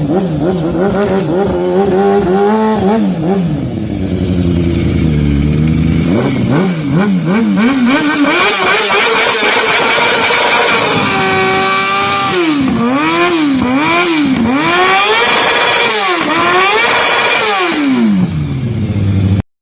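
A motor vehicle's engine revved up and down again and again, with slower rises and falls at first, then a run of quick throttle blips in the second half.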